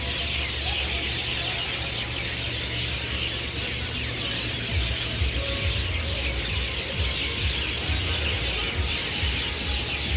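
A dense chorus of many birds chirping and squeaking at once, with a low rumble underneath that turns into irregular low bumps about halfway through.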